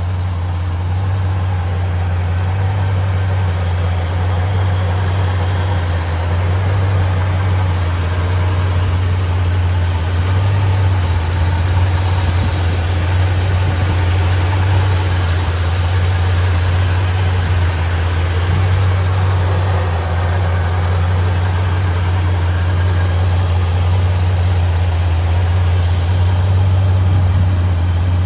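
Jeepster's engine idling steadily, heard close up in the engine bay.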